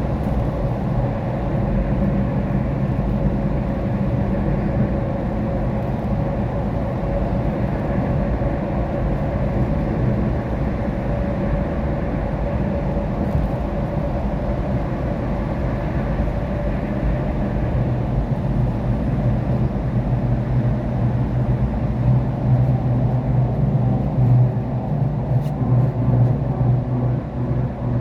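Car cabin noise while driving on a rain-wet road: a steady drone of tyres and engine with a faint hiss of wet pavement. A deeper rumble swells about twenty seconds in.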